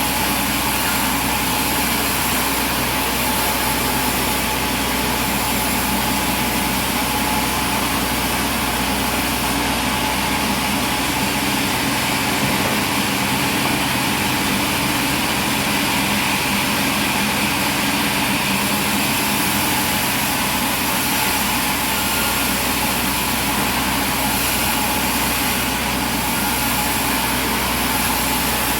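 Sawmill machinery running steadily: an engine drone with a dense, even mechanical noise that does not change.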